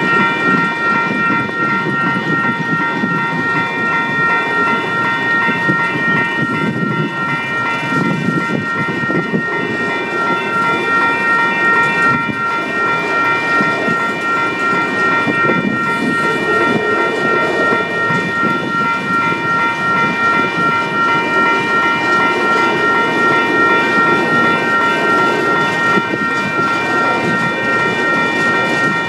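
A train of empty autorack cars rolling past, a steady rumble of wheels on rail, with a steady high-pitched ringing of several tones over it.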